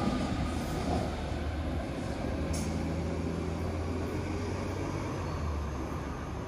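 Low rumble and hum of a BART train running on after its passage, slowly fading near the end.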